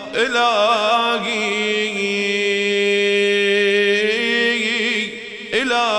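A man's voice chanting a supplication in a drawn-out melodic style. It wavers through ornamented turns, holds one long steady note in the middle, and begins a new phrase near the end.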